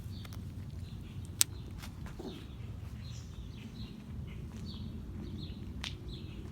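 Small birds chirping repeatedly, short high calls that drop in pitch, over a steady low rumble. A sharp click about a second and a half in is the loudest sound, with a fainter one near the end.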